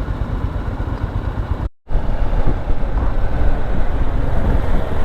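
Motorcycle riding on the road, its engine and the rush of riding heard as a steady loud rumble through a helmet-mounted camera. The sound cuts out completely for a moment a little under two seconds in, then resumes.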